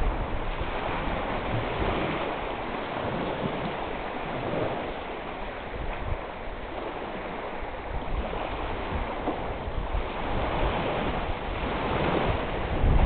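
Wind blowing over a reservoir, buffeting the microphone in uneven gusts, with waves splashing on the water; the gusts swell louder near the end.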